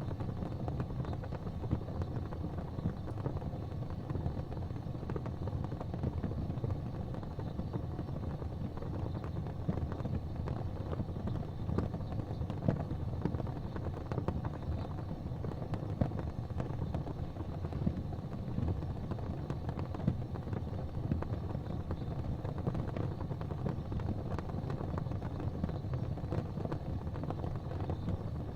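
Gas fireplace flames burning with a steady low rush, with a few faint soft pops.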